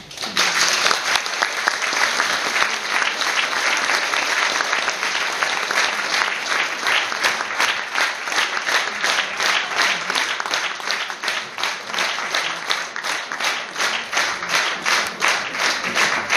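Concert audience applauding, breaking out suddenly as the piano's last notes fade. The clapping runs on loud and dense, and in the second half it falls into a more even, rhythmic beat.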